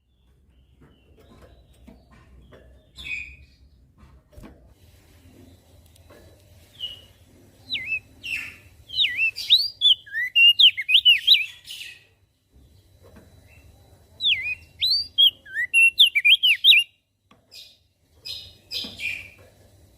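Crested white-eye (opior jambul) singing: two long phrases of rapid, swooping whistled notes, with shorter chirps before and after them.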